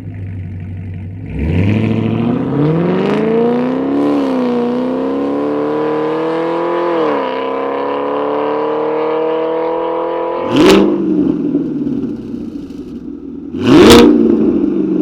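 Sixth-generation Chevrolet Camaro engine through an aftermarket exhaust: idling, then revved up about a second in and held at raised revs, settling back down about halfway through. Two sharp, loud bursts of exhaust near the end, the second the loudest.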